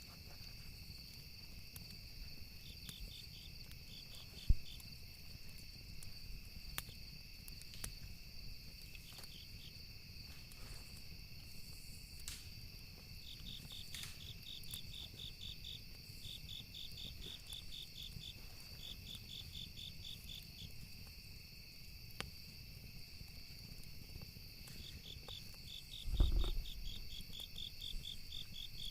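Campfire night ambience: crickets chirping in regular pulsed trains over a steady high insect trill, with scattered sharp crackles of burning wood, one loud crack about four and a half seconds in. A dull low thump sounds about 26 seconds in.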